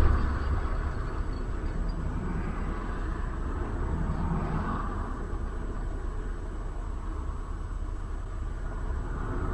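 Steady low rumble of a motor vehicle running, with a brief knock right at the start.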